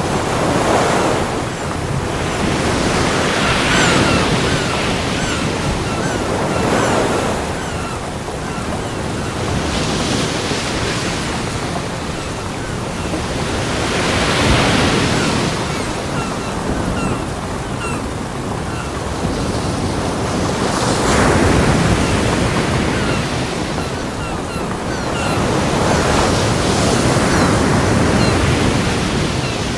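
Ocean waves breaking on a beach: the surf swells and fades every few seconds, about eight surges in all.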